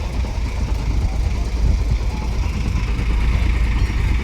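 Tractor engine running steadily at low revs, a continuous low rumble.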